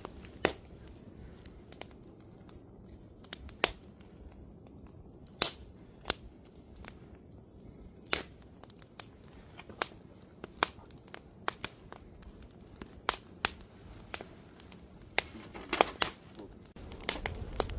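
Wood campfire crackling, with irregular sharp pops over a low steady hiss, a small run of pops near the end.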